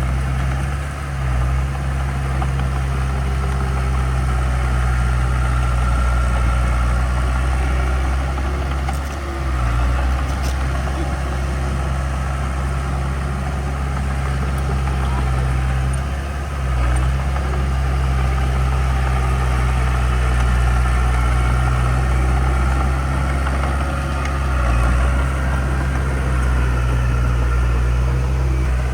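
Heavy diesel engine of an earthmoving machine running steadily with a deep low hum, dipping briefly in level a few times.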